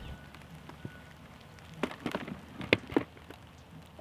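Light rain falling, with a few sharp drops or taps close by about halfway through.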